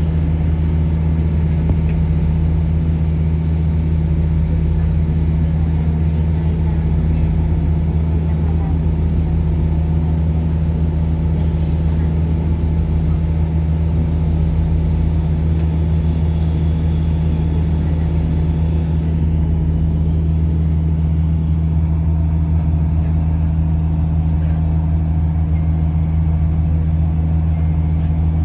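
Steady low engine drone with a deep, unchanging hum.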